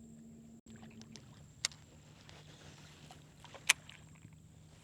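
Two sharp knocks about two seconds apart, the second the louder, over a faint steady hum: gear bumping on a small fishing boat.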